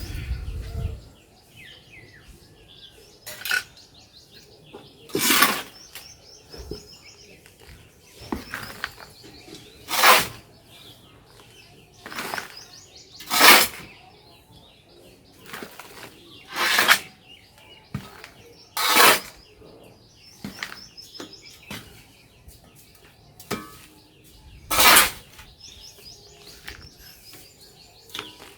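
Soil being scooped and poured in about ten short scraping strokes, a couple of seconds apart, with birds chirping in the background.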